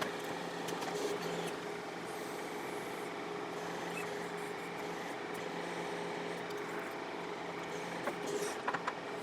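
John Deere 4052R compact tractor's diesel engine running steadily while it works a backhoe, with a few short knocks near the end.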